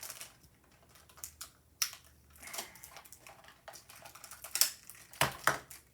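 Clear sticky tape being pulled off its roll and torn off: a scatter of light clicks and crackles, loudest near the end.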